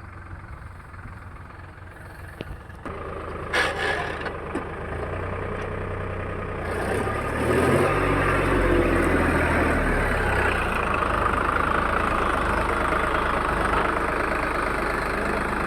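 Tractor diesel engine running. It picks up about three seconds in, revs up hard around eight seconds, then holds at high revs.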